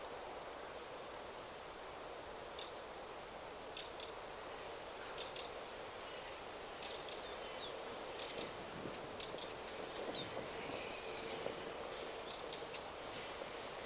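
Wind rustling steadily through forest trees, with a bird giving short, sharp, high call notes, mostly in quick pairs, about a dozen over the stretch.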